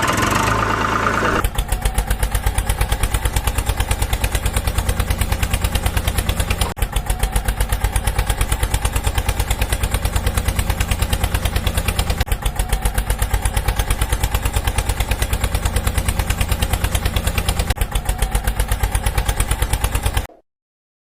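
Tractor engine idling with an even, fast chug of about five beats a second, settling into it about a second and a half in after the start-up, and cutting off abruptly near the end.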